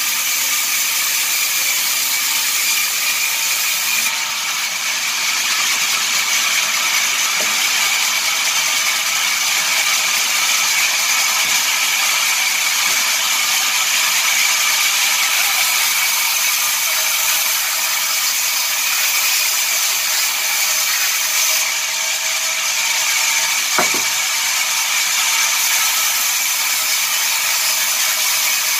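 Sawmill machinery running steadily: a loud, continuous high-pitched mechanical whirr.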